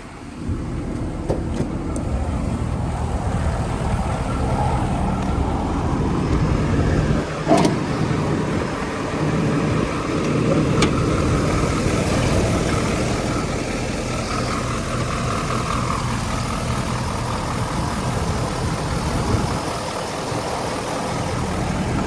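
Ford 6.7L Power Stroke V8 turbo-diesel engine idling steadily, with a single knock about seven and a half seconds in.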